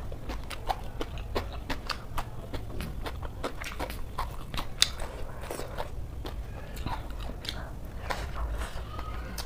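Close-up chewing of a mouthful of crunchy raw cabbage salad with rice: a quick, uneven run of crunches and mouth clicks over a low steady hum.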